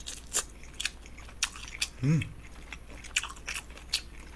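Close-miked chewing of a galbi-mandu (rib-meat dumpling): irregular wet smacks and mouth clicks as the dumpling is bitten and chewed, with a short hum about halfway through.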